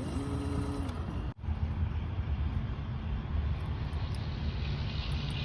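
Steady low rumble of wind and road noise, as from riding an electric scooter. There is a faint two-tone hum in the first second and a momentary break about a second and a half in.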